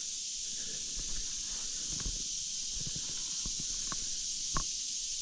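Steady high-pitched hiss of an insect chorus, with scattered light knocks and clicks from handling a hooked bass and tackle in a kayak, the sharpest a little after four and a half seconds.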